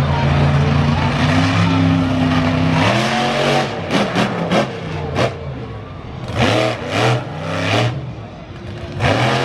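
Monster truck engine holding a steady, loud note, then from about three seconds in revving hard in a series of quick blips that rise and fall in pitch.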